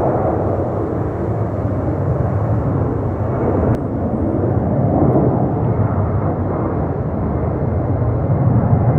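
Jet airliner engines making a loud, steady rumble, with a brief click and a slight dip in level about four seconds in.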